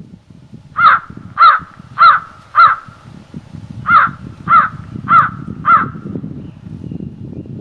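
A bird calling loudly in two runs of four evenly spaced calls, a little over half a second apart, with a short pause between the runs. Wind rumbles low underneath.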